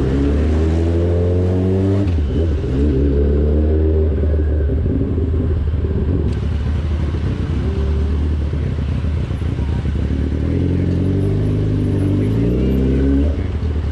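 2003 Yamaha R6's 600cc inline-four engine running under way. Its pitch rises as the bike accelerates and drops at a gear change about two seconds in. It holds fairly steady through the middle, then rises again and drops at another shift near the end.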